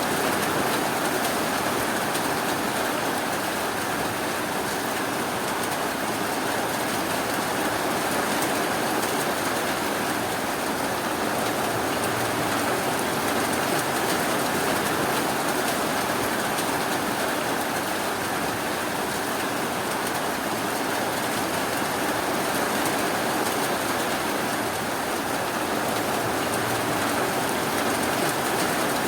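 Steady rainfall: a continuous, even hiss of rain with no thunder or distinct drips standing out.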